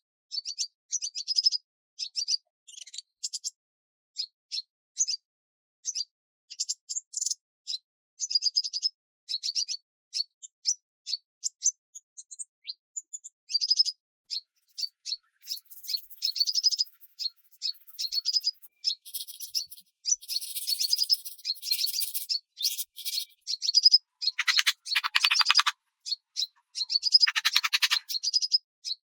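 Small birds chirping and singing: many short, high calls in quick succession. A harsher, rattling call comes in a few seconds before the end.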